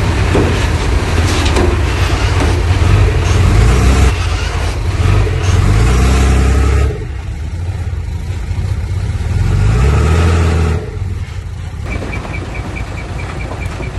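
Heavy diesel engine of an earthmoving machine revving up and down under load twice, easing off sharply after each push. Near the end a reversing alarm starts beeping rapidly.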